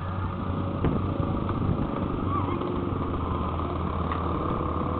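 Steady road-traffic noise: a low engine hum with a haze of road noise and a few faint wavering higher sounds.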